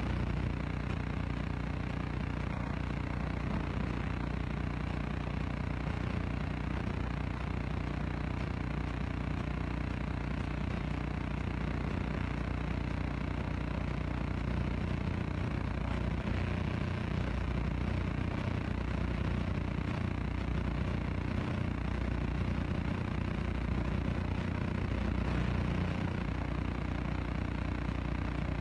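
An engine idling steadily, a low, even drone that holds without revving.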